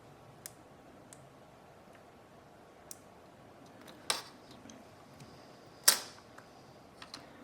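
Scattered small clicks and taps from hand work on a small electronic device, with two sharper knocks about four and six seconds in.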